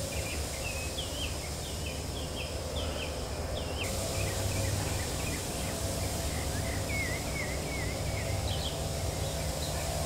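Small birds chirping over and over in short hooked notes, about two a second, over a steady low rumble of background noise.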